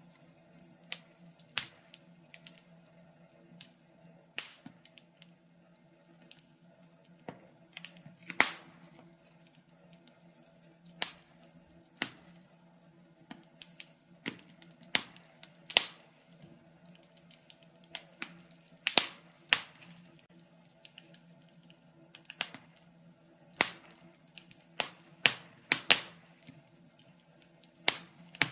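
Fire crackling in a fireplace: irregular sharp pops and snaps, some much louder than the rest, over a faint steady low hum.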